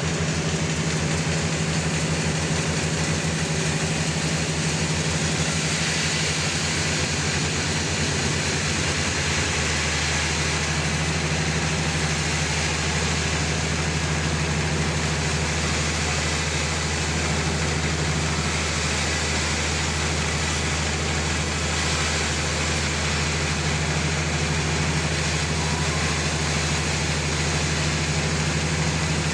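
Homemade sawmill running steadily, with the deep hum of its engine and a hiss of cutting over it. About ten seconds in, the low hum changes from a pulsing beat to an even drone.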